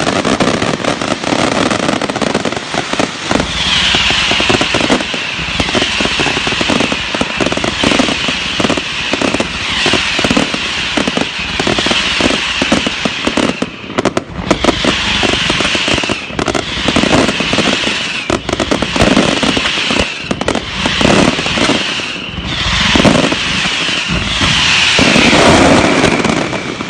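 Fireworks going off in a dense, continuous barrage of bangs and crackles, with a high, slightly falling whistle coming back about every second and a half.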